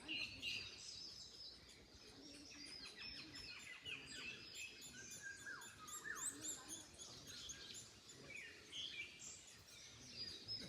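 Several wild birds chirping and singing at once, a busy mix of short overlapping chirps and whistled notes, some sliding down in pitch, over a faint steady background hiss.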